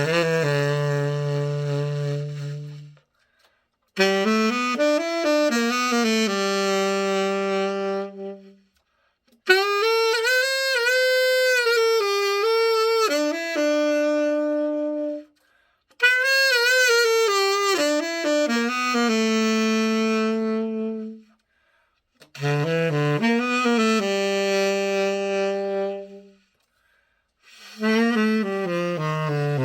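Tenor saxophone playing a slow melody with vibrato, in six phrases separated by short silences.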